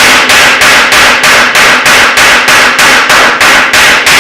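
Hammer forging steel on an anvil, flattening the end of the part: a steady run of sharp blows, about four a second, with metallic ringing between them.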